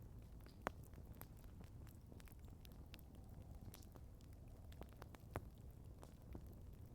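Wood campfire crackling: a steady scatter of small sharp pops, with two louder pops, one about a second in and one a little past five seconds in.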